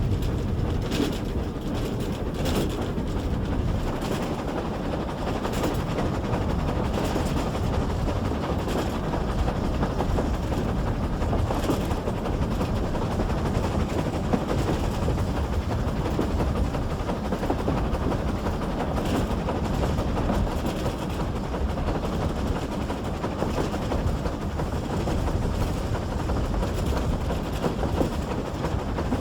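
Train running, heard from on board: a steady rumble of wheels on the track with scattered sharp clicks, clustered near the start and again about two-thirds of the way through.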